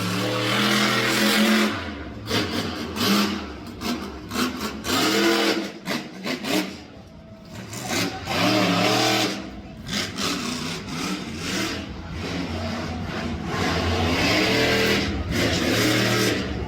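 Monster truck engine revving hard again and again, its pitch rising and falling with short drops between bursts of throttle.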